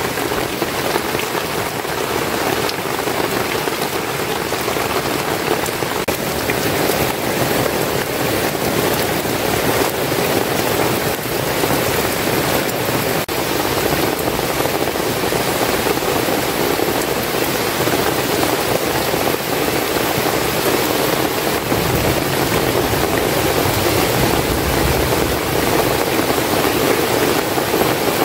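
Heavy tropical rain falling steadily on the ground, foliage and campsite tarp, a dense unbroken hiss.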